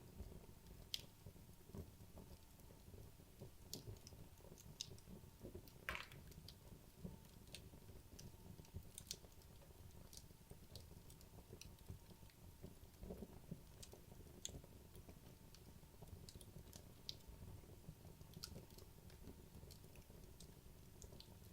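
Wood logs burning in a fireplace: faint, sparse crackles and snaps at irregular intervals over a low, steady rumble, with one sharper pop about six seconds in.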